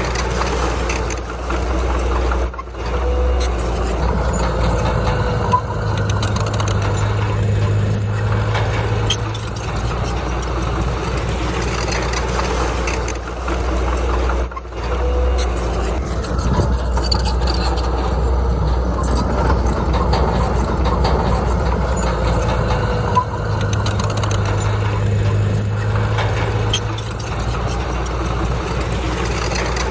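Komatsu D31P bulldozer's diesel engine running steadily as it works. The deep engine hum strengthens under load for a few seconds twice and dips briefly twice, in a repeating work cycle.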